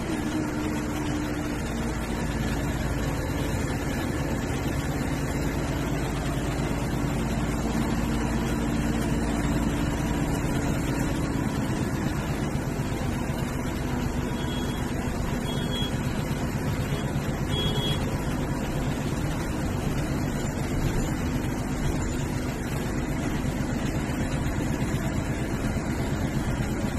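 MSRTC bus running steadily on the road, with its engine and road noise droning. The engine note falls slowly over the first ten seconds or so. A few short high beeps sound around the middle.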